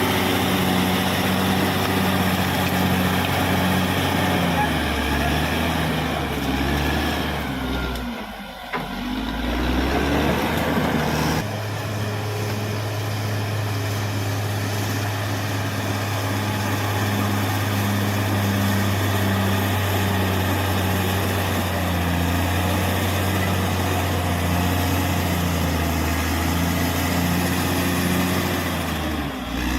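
Caterpillar D6R XL bulldozer's diesel engine running steadily. Around 8 s in its pitch and level drop briefly and then climb again, and about 11.5 s in the sound changes abruptly.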